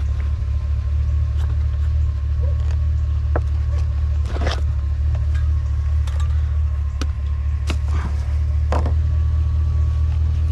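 A steady low engine-like rumble, with a few scattered knocks and clatters of junk being shifted and handled.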